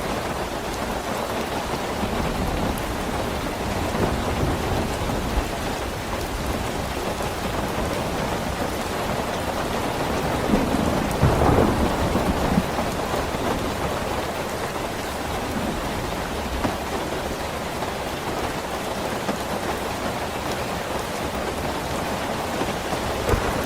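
Steady, dense rainfall, with a louder low rumble swelling up about halfway through.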